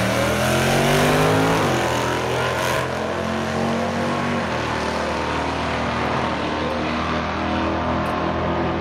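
Modern HEMI V8 drag car accelerating hard, its engine note climbing and then dropping sharply at a gear change under two seconds in, then holding fairly steady at high power.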